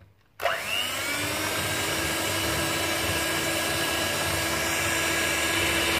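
Electric mixer switched on about half a second in, its motor whine rising quickly to a steady speed as it beats eggs with sugar; it cuts off abruptly at the end.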